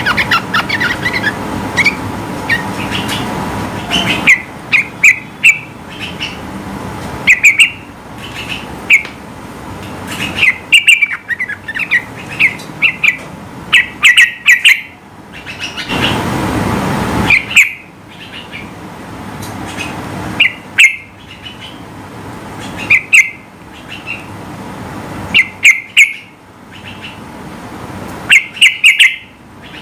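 Yellow-vented bulbul (trucukan) singing in quick clusters of short, loud chirping notes, a burst every second or two, over a steady background hiss. About sixteen seconds in, a louder rush of noise briefly rises under the song.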